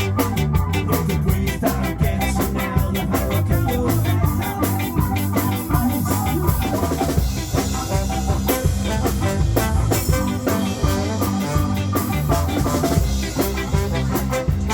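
A live band playing a song with a steady beat on drum kit and a sustained bass line, with little or no singing.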